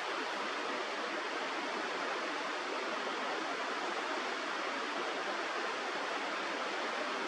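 Steady rush of flowing river water, an even noise with no calls or other events.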